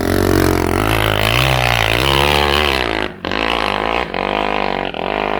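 Enduro dirt-bike engine revving hard, its pitch rising and falling as the rider works the throttle, with brief sharp cuts in the engine note about three, four and five seconds in.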